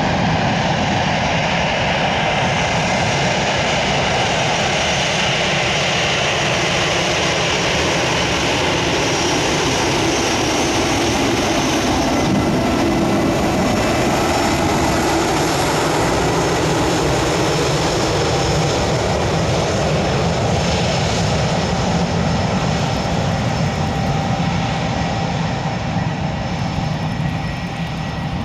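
Airliner's engines running loudly and steadily as the aircraft moves past, the pitch of the engine noise slowly sliding down and back up.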